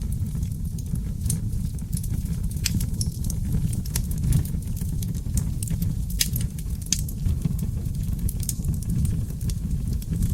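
Wood fire of seasoned oak logs burning in a fireplace: a steady low rumble of flames with frequent, irregular sharp crackles and pops.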